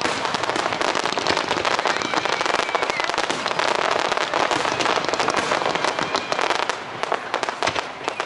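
Fireworks display: a dense, continuous barrage of rapid crackling and popping reports.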